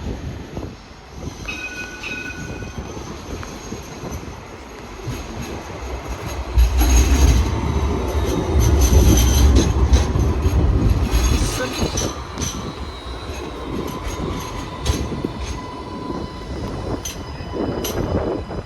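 A tram passing close on its rails, with a loud low rumble for several seconds from about a third of the way in. High-pitched wheel squeal rings out over it.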